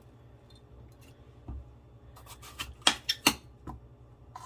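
Kitchen knife cutting a bell pepper, with a few sharp knocks of the blade on the cutting board close together about three seconds in.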